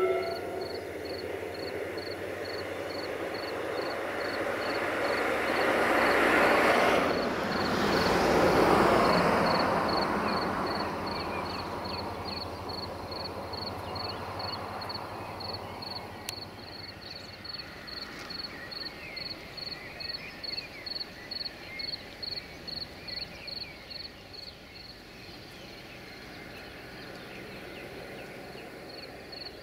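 A passing passenger train's rumble swells to a peak about seven to nine seconds in, then fades away. Under it and afterwards an insect chirps steadily in high, evenly spaced pulses, two or three a second.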